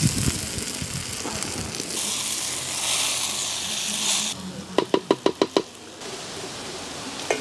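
Cooked cluster-fig pieces sizzling as they go into a hot clay pot of coconut oil tempering, with a wooden spoon stirring; the sizzle dies down after about four seconds. About five seconds in, a quick run of about seven short pitched clicks.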